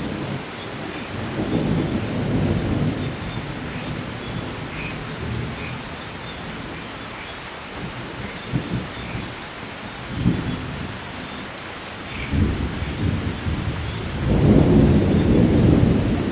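Steady heavy rain with thunder rumbling in several low swells, the loudest rolling in about two seconds before the end.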